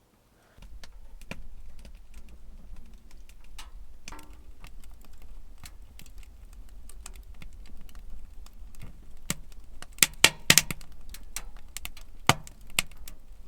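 Wood fire crackling in a small wood stove: scattered sharp clicks and pops, with a few louder pops about ten seconds in and again near the end, over a low steady rumble.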